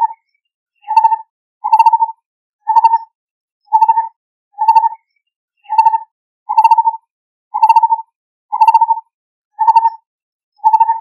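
Lineated barbet calling: a short note at one steady pitch, repeated about once a second with clean gaps between the notes.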